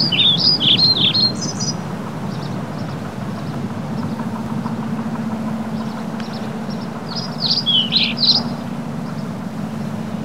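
A small bird chirping in quick series of short notes, near the start and again about seven seconds in, over a steady low background rumble.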